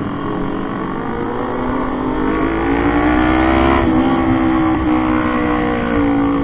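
Motorcycle engine running while riding, its pitch rising through the first few seconds as it accelerates and then holding steady, over a low wind rumble.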